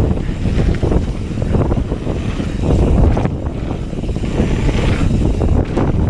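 Wind buffeting the microphone over the rumble and rattle of a hardtail mountain bike ridden fast over a dirt trail, with irregular knocks from the ground.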